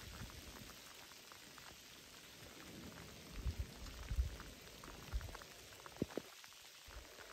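Rain falling: a steady faint hiss with scattered ticks of drops landing. A few soft low thumps come around the middle, and a single sharper click about six seconds in.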